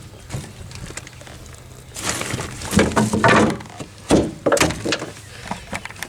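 Knocks and thumps on the boat, in several clusters after about two seconds, while a freshly landed channel catfish is handled aboard.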